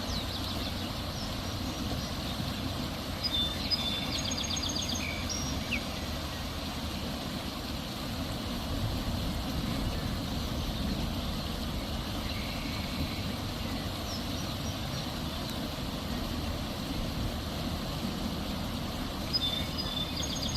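Steady rain falling, with birds chirping in short quick trills a few times, about three seconds in, around the middle and near the end.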